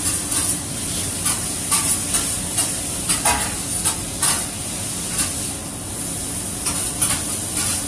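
Food frying and sizzling in a hot pan, a steady hiss broken by many irregular clicks and scrapes of a cooking utensil against the pan.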